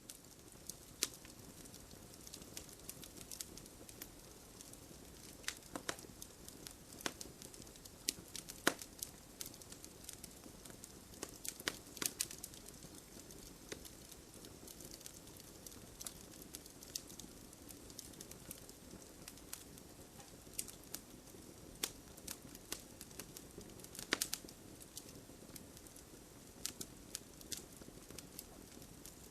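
Wood fire burning in a fireplace, crackling: irregular sharp pops and snaps over a soft, steady hiss.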